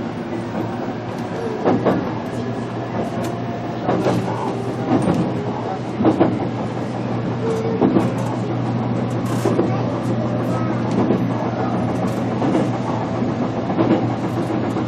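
Running sound inside a JR Kyushu BEC819 'DENCHA' battery-electric train car, running on battery power: a steady hum with short clacks of the wheels over rail joints every second or two.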